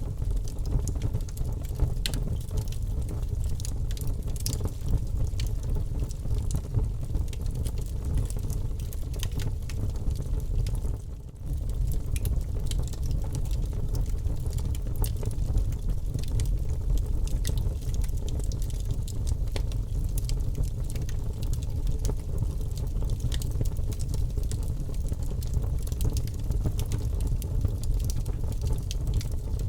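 Wood fire burning in a fireplace: a steady low rumble with scattered sharp crackles and pops. The sound dips briefly about eleven seconds in.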